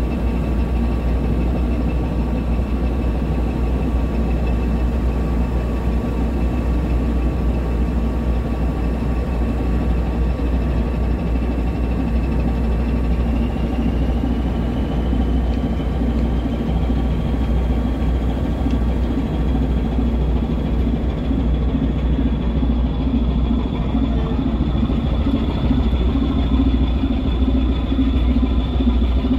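A ship's engine running steadily with a deep, continuous drone, with a thin high whine that rises slightly in pitch partway through.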